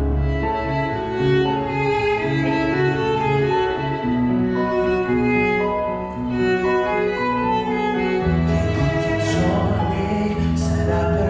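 Live instrumental music: a violin plays a melody in sustained notes over bowed-string and piano accompaniment. About eight seconds in, a deeper bass line comes in and the accompaniment grows fuller.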